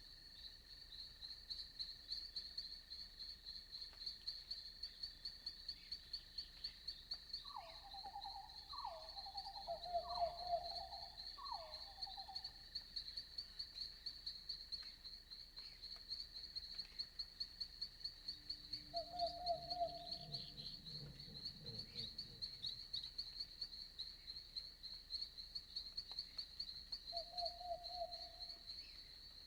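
Night insects, crickets by their sound, chirping in a steady fast-pulsing high chorus, over a faint steady high drone. An animal calls over it: four falling calls in quick succession about eight seconds in, then single short calls around twenty seconds and near the end, with a brief low rumble around twenty seconds.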